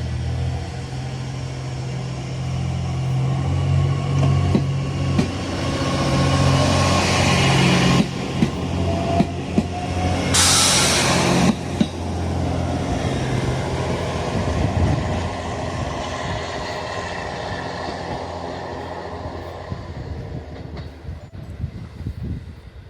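Diesel train pulling away from the station: the engine drones low and steadily, the wheels clack over rail joints several times from about eight seconds in, and a loud hiss lasts about a second just after ten seconds. The sound then slowly fades as the train moves off.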